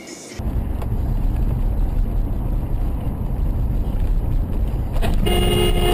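Steady low rumble of a car on the move, with road and engine noise. Near the end a car horn sounds, one long steady blast.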